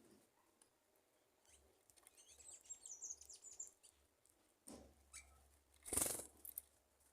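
Small birds giving faint, high, thin chirps in a quick run for a couple of seconds, followed by two short rustling noises, the second and louder one about six seconds in.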